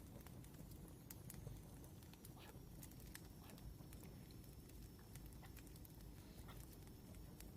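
Faint wood fire crackling, with scattered sharp pops and snaps at irregular intervals over a low rumble.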